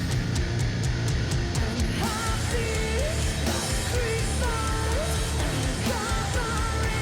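Heavy metal band playing live, with distorted guitars, bass and drums. A pitched melody with bending notes comes in about two seconds in.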